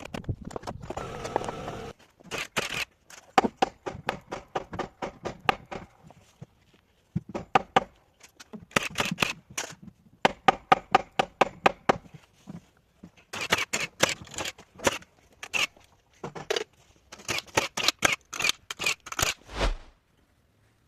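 Runs of sharp knocks, several a second, with short pauses between runs: hammer blows on timber as bathhouse walls are fastened. A rougher, denser noise comes in the first two seconds.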